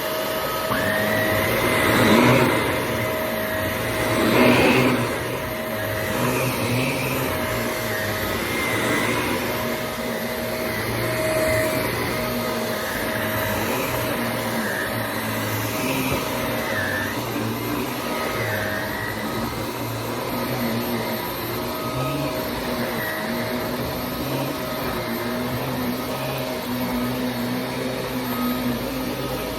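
Shark Navigator NV350 upright vacuum cleaner running with a steady motor hum, louder in two brief swells about two and four and a half seconds in.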